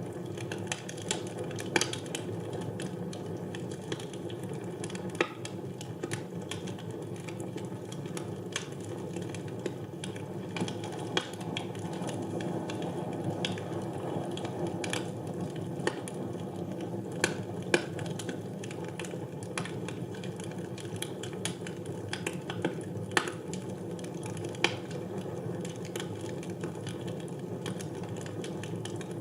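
Wood fire burning in a fireplace: irregular crackles and sharp pops over a steady low rush of the flames.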